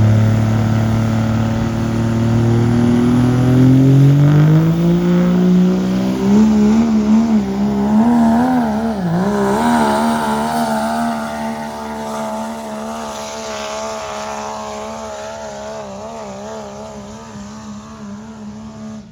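Diesel pickup truck engine under full load in a truck pull: it revs up, climbing steadily in pitch over the first few seconds, then holds at high revs with a wavering pitch as it pulls away and slowly grows fainter.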